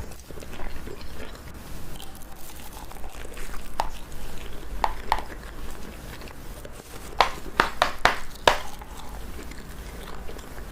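Slime being squished and worked by hand, with a crunchy crackle and a run of sharp clicky pops about four to nine seconds in.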